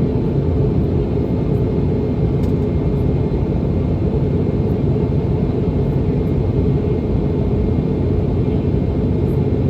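Steady low rumble of engine and airflow noise inside the cabin of a Boeing 717 in flight, heard from a seat near its rear-mounted engines.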